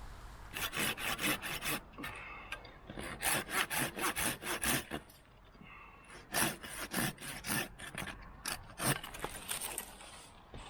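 Climbing rope being hauled in quick rasping strokes, rubbing against wood, in three runs with short pauses between them.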